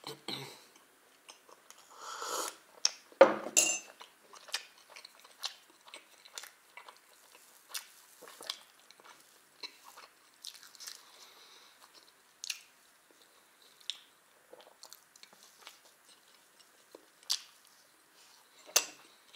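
Close-up eating sounds: a man chewing and biting pancakes with porous milk chocolate, with many short wet mouth clicks and smacks. A louder clatter comes about three seconds in, and another sharp click near the end.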